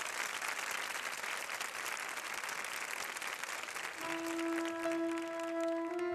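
Studio audience applauding. About four seconds in, the applause gives way to a slow instrumental introduction of long held notes.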